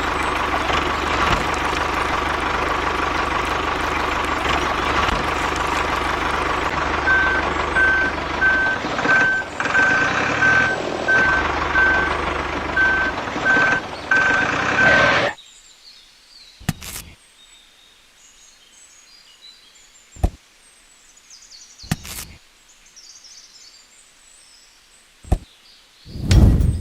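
Mini tractor running with a steady engine-like drone and, from about seven seconds in, an evenly repeating high reversing-style beep. Both cut off abruptly about halfway through, leaving quiet with a few sharp clicks and faint bird chirps.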